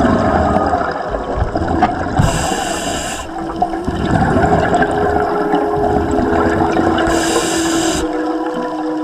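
Underwater sound of a scuba diver breathing through a regulator: two bursts of hiss, each about a second long and about five seconds apart, over a constant bubbling. A steady hum runs under it.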